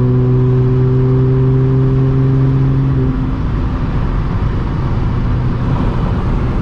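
Audi S4 B8.5's supercharged 3.0 V6 through an AWE exhaust on test pipes, heard from inside the moving car: a steady exhaust drone that drops away about three seconds in, leaving road noise.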